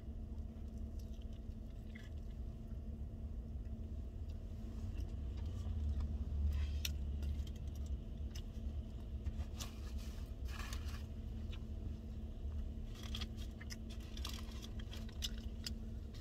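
A person chewing a chicken wrap, with short bursts of crinkling from its paper wrapping a few times, over a steady low rumble and hum inside a car.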